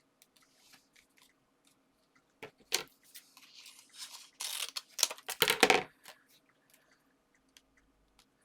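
Paper and card being handled: rustling and crackling from about two and a half to six seconds in, loudest near the end of that stretch, with small taps and clicks around it.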